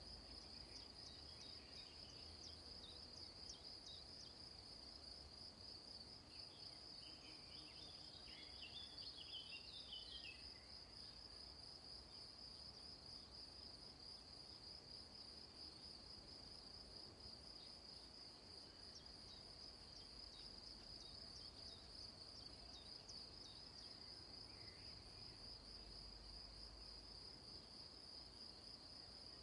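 Faint, steady high-pitched insect trilling at one pitch throughout. Birds chirp briefly near the start and again for a few seconds about a third of the way in.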